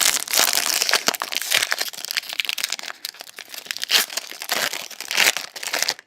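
Trading-card pack wrapper crinkling and tearing open as it is handled, with a dense crackle in the first second and a half, then shorter rustles about four and five seconds in.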